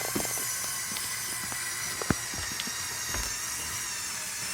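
Battery-powered Lego Technic electric motors running with a steady high-pitched whine as a Lego tractor pulls the weighted sled, with scattered small clicks and ticks from the gears and wheels.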